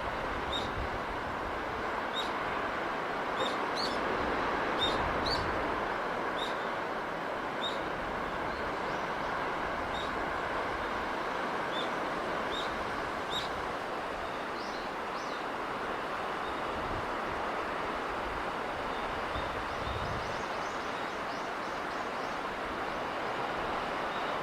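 Steady wash of sea and breeze, with a small bird giving short, high chirps about once a second through the first half and a few higher chirps later.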